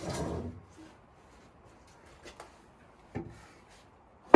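A heavy machine being moved over concrete on wooden log rollers: a short scraping rumble, then a faint knock about three seconds in and a sharp, loud knock near the end.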